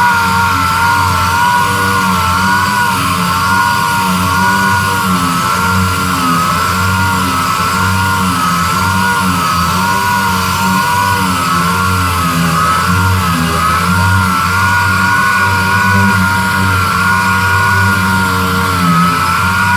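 Power sander running continuously, sanding a surface down for primer. Its high whine wavers up and down in pitch as it is pressed and moved.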